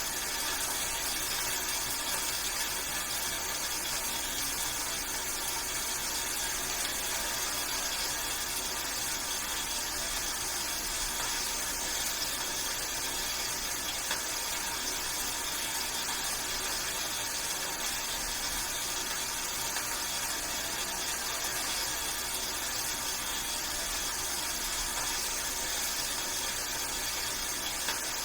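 Steady rainfall: a dense, even hiss with fine scattered drop ticks, unchanging throughout.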